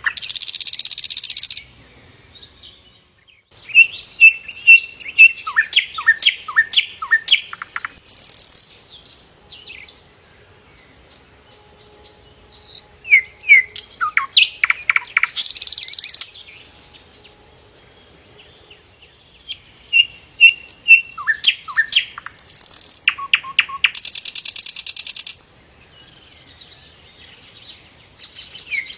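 A sikatan londo flycatcher singing in bouts: quick runs of sharp chips and short down-slurred whistles, broken by harsh buzzy rattles of a second or so. Quieter pauses of a few seconds fall between the bouts.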